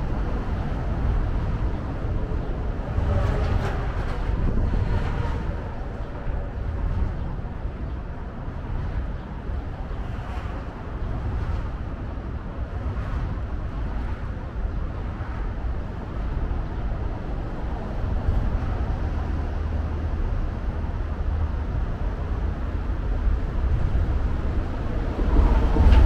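Outdoor city ambience by a river: a steady low rumble of traffic with no distinct single event, swelling briefly near the end.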